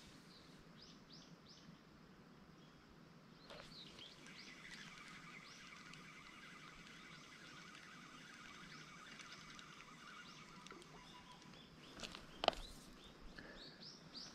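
Faint outdoor quiet with small birds chirping: a run of short chirps at first, then a longer trilling call through the middle, with a couple of sharp clicks near the end.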